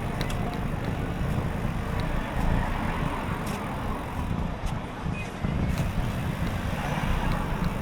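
Wind buffeting the microphone of a camera on a moving bicycle, a steady low rumble, with road and traffic noise and a few faint clicks.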